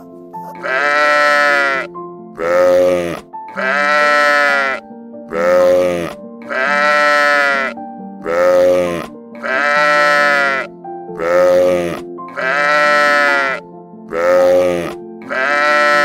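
A steady run of bleats in a regular rhythm, alternating long and short calls, about one every one and a half seconds, over background music.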